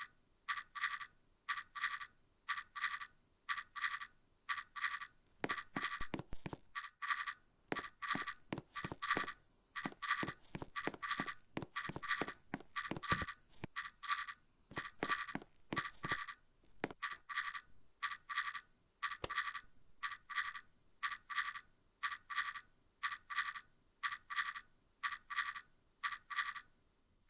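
Panasonic F-M15A0 ceiling fan running with a rhythmic chirping squeak, about two a second. Scattered sharp clicks come in the middle.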